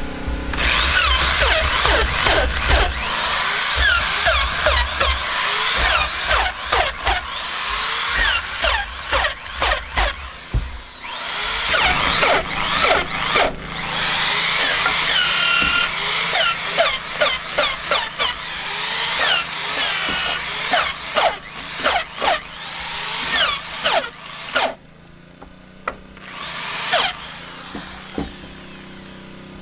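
Handheld power tool working wood in many short, repeated bursts, the motor speeding up and slowing down with each trigger pull. It stops about 25 s in, with one more short burst near the end.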